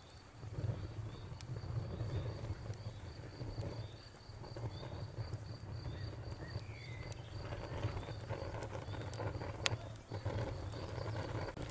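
Wood fire crackling with scattered pops, one sharp pop near the end, over a cricket chirping in a fast, even pulse that fades out late on. A short gliding bird call comes about seven seconds in.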